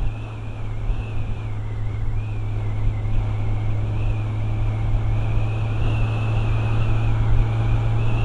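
Motorcycle engine running steadily while riding, a constant low hum with a wavering higher whine over it, mixed with wind rush and rumble on the camera's microphone.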